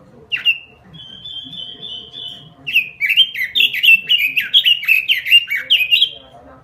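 Red-billed leiothrix (Pekin robin) singing: a single short note, a high buzzy trill, then a quick run of downward-slurred whistled phrases, about four a second, that stops near the end.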